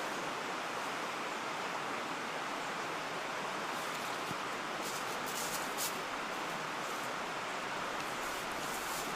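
Steady rushing of a mountain stream, with a few faint high ticks around the middle and near the end.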